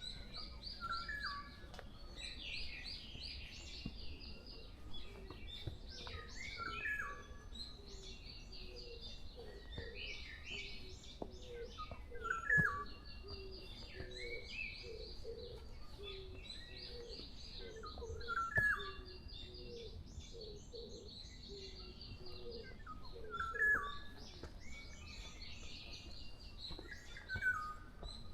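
Pre-dawn forest chorus of several songbirds singing over one another. One nearer bird repeats a short, louder phrase every five or six seconds, and a string of low notes runs through the middle.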